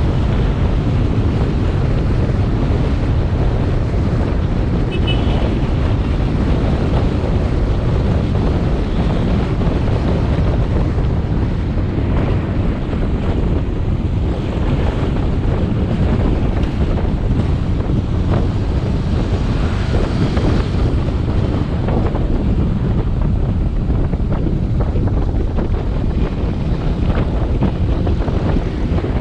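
Wind buffeting the action camera's microphone on a moving motorbike: a steady, loud, low rumble. The motorbike's engine and road noise run underneath it.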